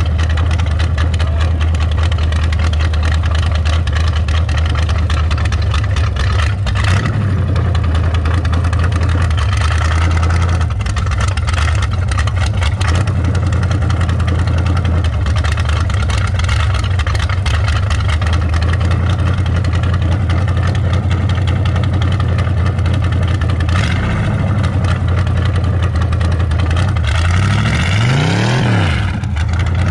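A 1933 Ford roadster hot rod's engine running at low speed through its exhaust headers as the car rolls along, with a quick rise and fall in engine speed near the end.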